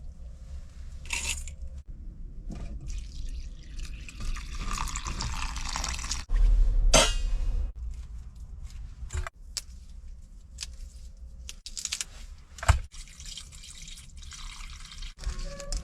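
Cooking sounds at a stove: liquid pouring and dripping, with glass and metal clinks of containers and a pot. There is a hiss for a couple of seconds, then a loud low thump about seven seconds in, and a sharp knock near the thirteen-second mark.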